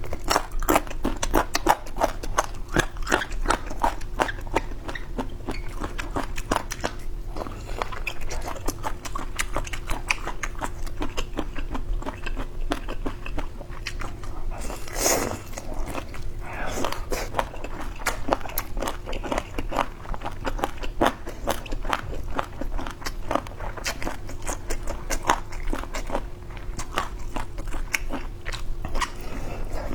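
Close-up eating sounds of boneless chicken feet: continual chewing with wet, crunchy clicks and crackles, with a faint steady hum behind.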